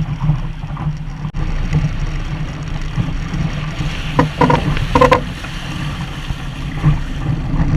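Wind buffeting the camera microphone aboard a Sunfish sailboat under sail, a dense steady low rumble. A few short higher-pitched sounds cut through about four to five seconds in.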